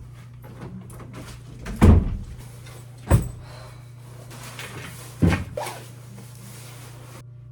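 Three loud thuds, like doors or cupboards being shut, about two, three and five seconds in, over a steady low hum.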